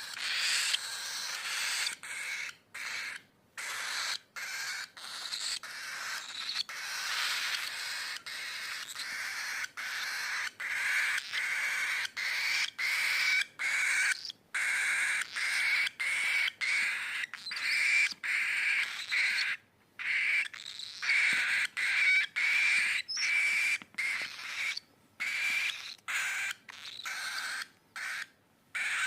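A cockatiel chirping and whistling in a long run of short phrases, with a steady high whistle recurring through much of it and frequent abrupt silent breaks.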